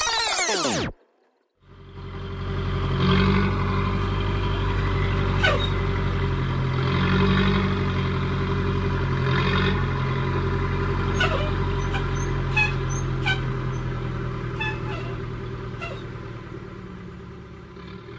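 A short sweeping whoosh, then a truck's engine running steadily with a few sharp knocks through it, fading out near the end.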